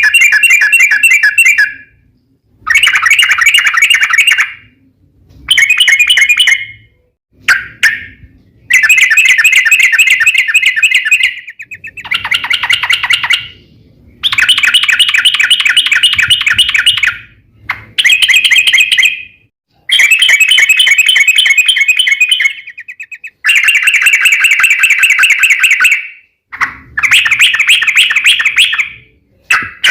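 Yellow-vented bulbul (trucukan) singing its long rapid chattering song: about ten fast phrases, each a couple of seconds long, repeated with short pauses.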